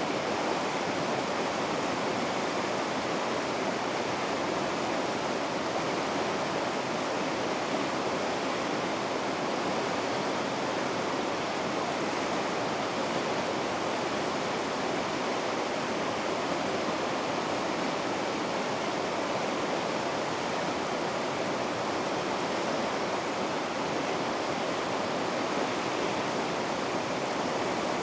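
Vikaköngäs rapids on the Ounasjoki river: white water rushing over rocks in a steady, unbroken wash of sound.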